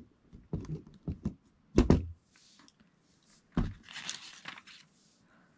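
Plastic Lego pieces being handled and pressed onto studs: scattered light clicks and a few sharp knocks, the loudest about two seconds in and again about three and a half seconds in, followed by a brief rustle.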